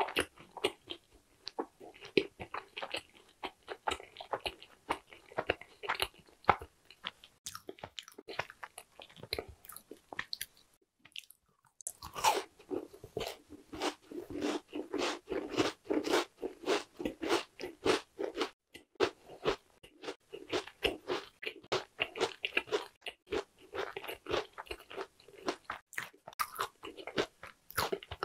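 Close-miked chewing and crunching of crisp Korean sweet snacks: a dense run of small crackling crunches, broken by a quiet gap of about a second near the middle before the chewing picks up again.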